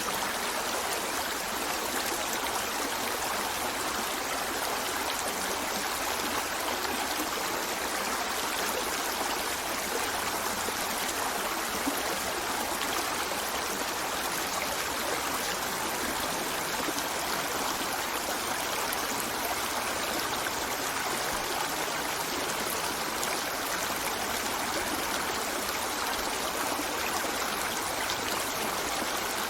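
River flowing steadily over stones, a continuous rushing and babbling with no change in level.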